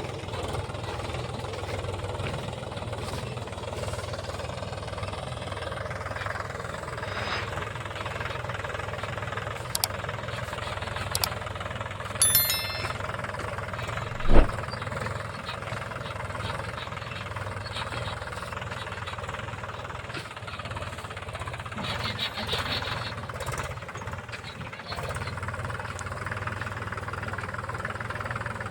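Mahindra tractor's diesel engine running steadily while driving a rotavator, with one loud knock about halfway through.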